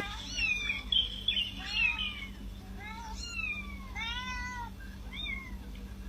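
A cat meowing: about six short, high rising-and-falling meows in a row, the longest one about four seconds in.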